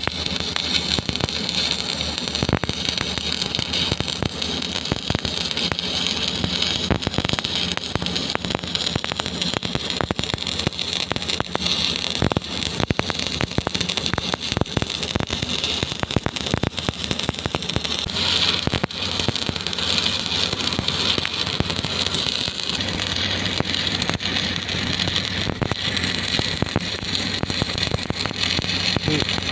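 Stick (arc) welding: the electrode's arc crackling and sizzling steadily as a bead is run, with a steady low hum underneath.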